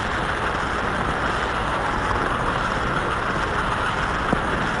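American Flyer S-gauge model train running along the track: a steady rushing rumble with no distinct clicks or whistles.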